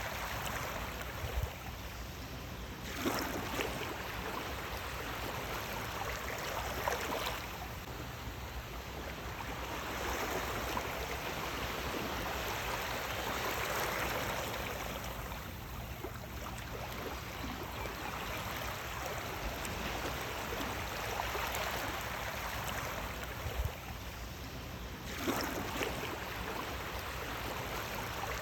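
Moving water rushing and splashing continuously, swelling and easing every several seconds, with a few brief sharper splashes.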